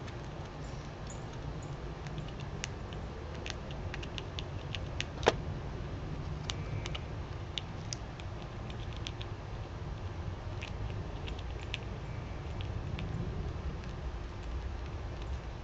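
Outdoor yard ambience: a steady low rumble under many scattered small clicks and ticks, with one sharp click about five seconds in.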